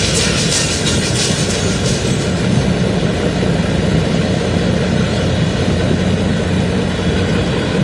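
Big diesel semi-truck engine running loud and steady with a deep rumble.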